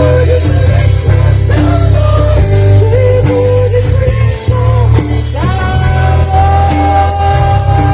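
Rock band playing a song, with bass and a bending melodic lead line over it; about two-thirds of the way in, the lead slides up and holds a long note.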